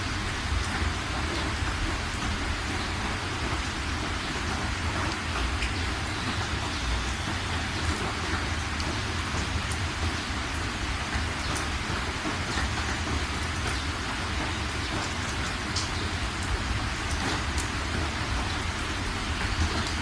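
Steady rain falling, with scattered individual drops ticking out above the even hiss.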